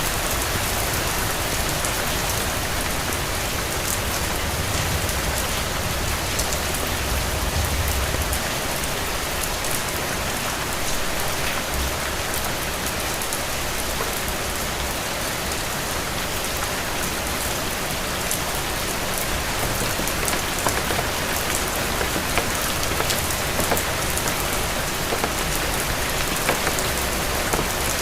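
Steady rain falling on hard surfaces, with many small drop ticks, and a low rumble that comes and goes underneath.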